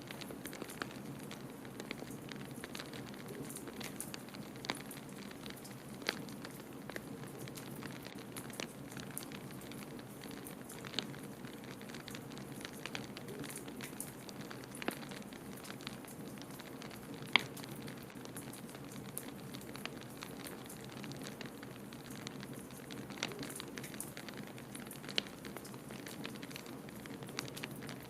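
Wood fire crackling in a fireplace: scattered sharp pops and snaps, the loudest about 17 seconds in, over a steady low rushing hiss.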